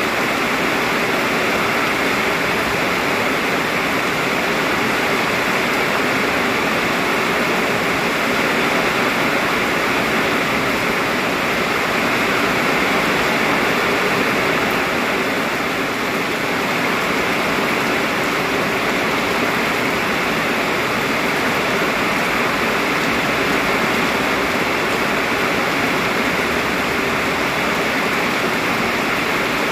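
Heavy rain pouring down steadily, a dense even rush of water with no let-up.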